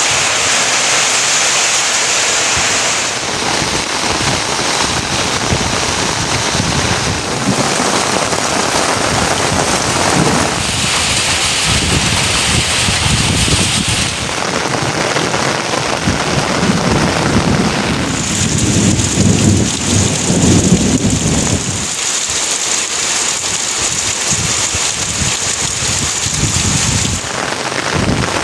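Heavy rain falling steadily, with a low rumble about two-thirds of the way through.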